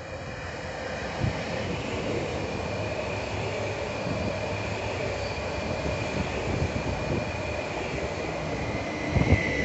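Passenger train moving through the station: a steady rolling rumble with a high whine held throughout, and a few wheel knocks over the rail joints near the end.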